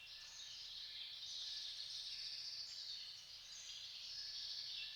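Faint, steady, high-pitched drone of insects in a natural ambience.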